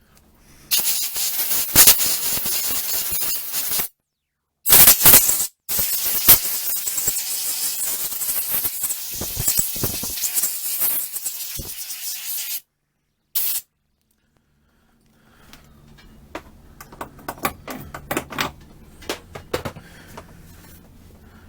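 Pressurized spray hissing in four blasts, one long one of about seven seconds among them, cleaning out a small-engine carburetor after its soak. After the blasts, faint clicks and taps of small parts being handled.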